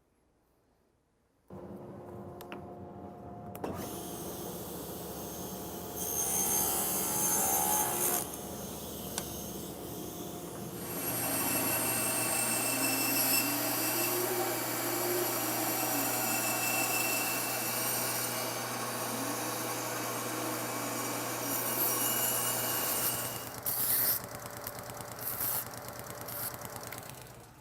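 Power saw running and cutting plywood pieces to size, with louder stretches as the blade goes through the wood; it starts about a second and a half in and stops near the end.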